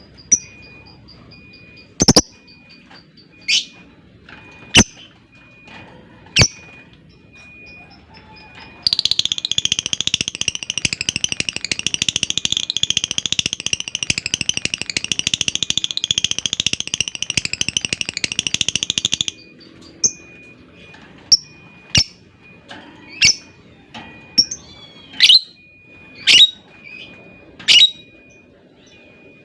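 Lovebird calling: sharp single chirps, then about nine seconds in a long, rapid, unbroken chattering trill (ngekek panjang) that lasts about ten seconds and stops abruptly, followed by more sharp chirps.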